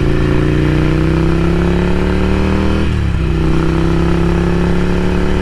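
Ducati Scrambler Café Racer's air-cooled L-twin running through a Vance & Hines slip-on exhaust under way. The revs climb slowly, drop with an upshift about three seconds in, then hold steady.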